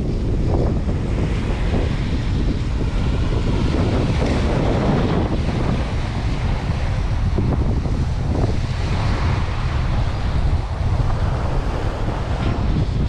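Wind buffeting the microphone in a loud, continuous low rumble, over the wash of surf breaking on a sandy beach that swells up a few times.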